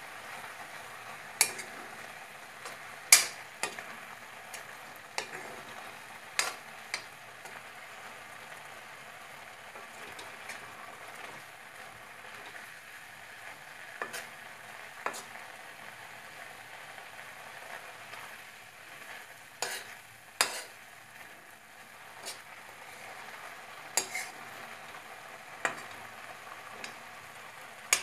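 Grated carrots sizzling gently in a metal pan while they are stirred, with a metal spoon scraping and clinking against the pan every few seconds; the loudest knock is about three seconds in.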